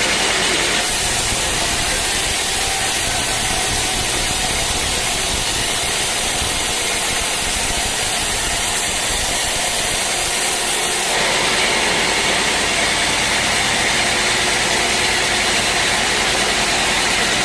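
Sawmill machinery running steadily and loudly. From about a second in until about eleven seconds the sound turns brighter and hissier, then falls back to a fuller, lower running sound.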